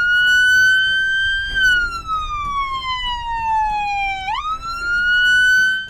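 Police car siren wailing through the car's front-mounted siren speaker: a high tone that holds, falls slowly for about three seconds, sweeps quickly back up, then stops abruptly near the end.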